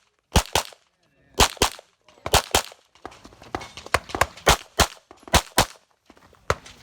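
9mm pistol fired rapidly: pairs of shots about a fifth of a second apart with pauses of under a second between pairs, typical double taps on each target, then a quicker, denser string of shots from about three seconds in.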